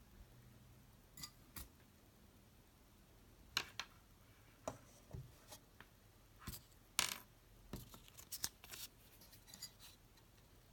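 Irregular light clicks and taps from small parts being handled, with the sharpest about three and a half and seven seconds in.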